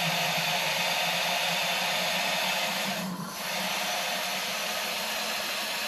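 Water running from a garden hose into a car radiator, a steady rushing hiss with a brief drop about three seconds in, as the radiator fills toward full.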